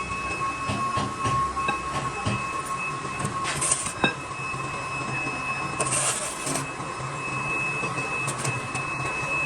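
Workshop machinery running with a steady high whine. Two short hissing bursts come through, and there is a sharp metallic knock about four seconds in.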